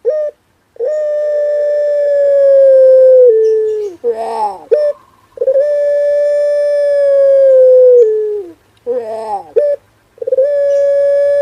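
Male puter pelung dove cooing: three long, drawn-out held notes, each stepping down in pitch at its end, with a short run of quicker broken notes between them.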